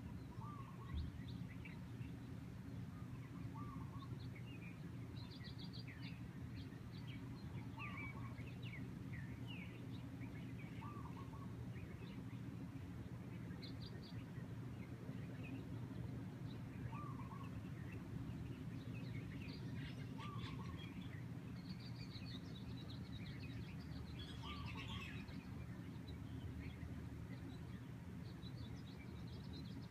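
Several songbirds chirping, with one bird repeating a short lower call every two to three seconds, over a steady low outdoor rumble.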